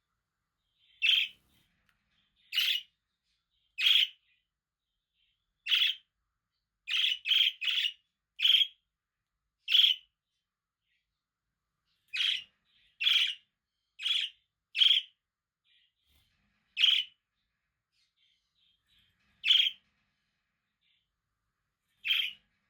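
Budgerigar giving short, loud single chirps at irregular intervals, about one every second or so, sometimes two or three in quick succession, with quiet in between.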